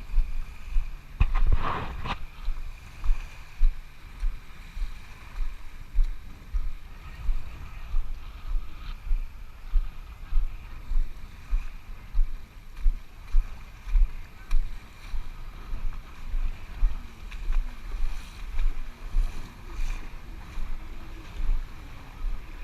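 Water sloshing and splashing close to the microphone in a regular rhythm, about once a second, as a person moves through a lake.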